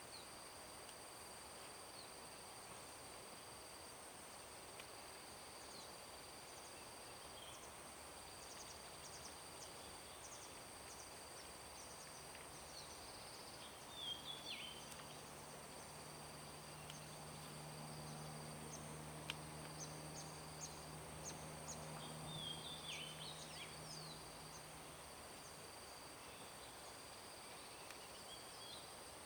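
Faint outdoor ambience of insects: one steady high-pitched drone with a second insect trilling on and off. A few short falling bird chirps come in twice, and a faint low hum runs through the middle of the stretch.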